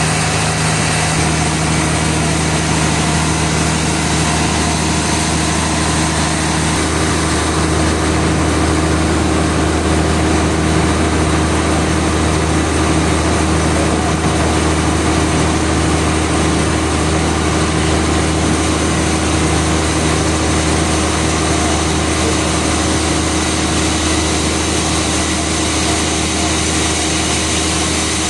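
Sawmill machinery running steadily with a constant mechanical hum and whine, with no cutting. A low tone in the hum changes about a second in.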